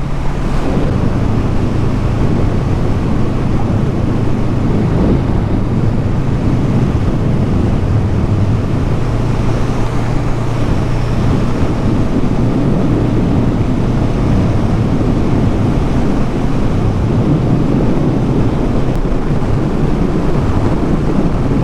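Motorcycle engine running steadily while cruising, under heavy wind noise buffeting the helmet microphone.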